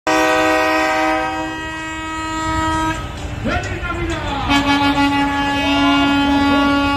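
Truck air horn sounding a long steady blast, then voices shouting in the gap, then a second long horn blast starting about four and a half seconds in.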